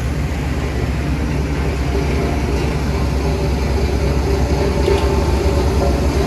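Heavy diesel road-construction machinery running steadily under load: a loud, continuous low rumble with no break.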